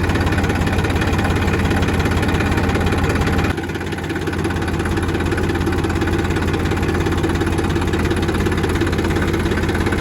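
Mini tractor's diesel engine idling steadily. About a third of the way in its low end drops away abruptly, then the idle carries on.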